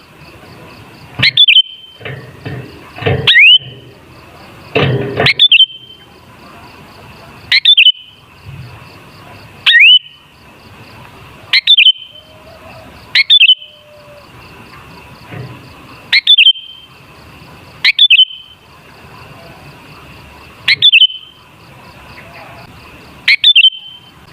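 Sooty-headed bulbul (kutilang) calling: short, loud, sweeping calls repeated about every two seconds.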